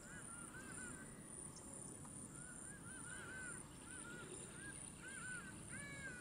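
A bird calling over and over: short arched notes, several a second, in clusters with short gaps, the last few a little higher and louder. A faint steady high-pitched tone runs beneath.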